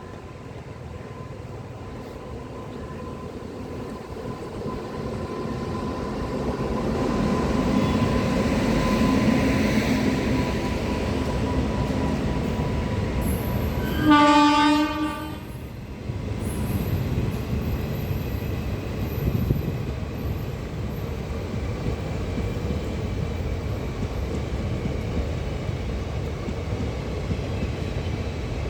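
Freight train drawing near with a rumble that grows louder, its locomotive sounding one horn blast about halfway through, then the wagons rolling past with a steady rumble.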